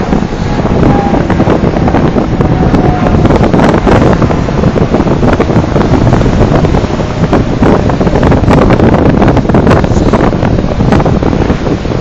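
Storm wind gusting up to gale force and buffeting the phone's microphone in loud, continuous low blasts, with heavy surf breaking underneath.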